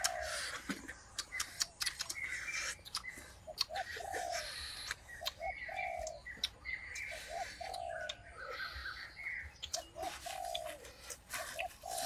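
A bird calling a repeated phrase of two short notes and a longer one, about every two seconds, with other birds chirping higher and scattered sharp clicks.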